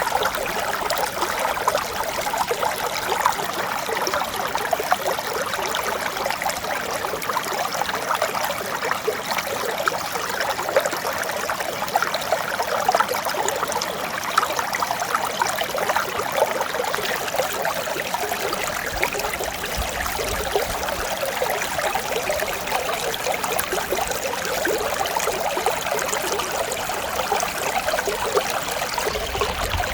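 Mountain stream flowing and babbling over rocks in a steady, even rush of water.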